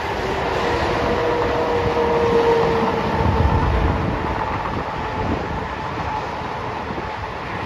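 Freight train's diesel locomotives, Union Pacific units leading, running past at a distance with a steady low rumble. A faint drawn-out tone sounds in the first half and fades out.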